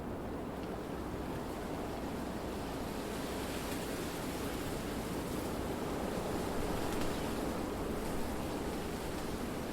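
Wind blowing through trees: a steady rushing noise that grows brighter and swells slightly partway through, as in a gust.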